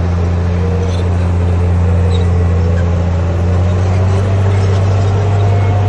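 Heavy construction machine's diesel engine running steadily under load, a deep even drone with faint wavering higher tones above it.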